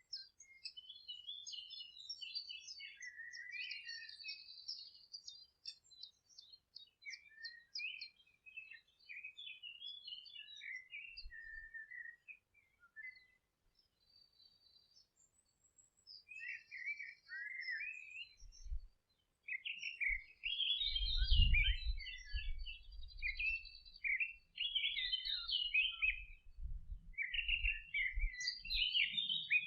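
Several songbirds singing, with overlapping chirps and trills that thin out to a short lull about halfway through. From about two-thirds in, a dull low rumbling sits under the song.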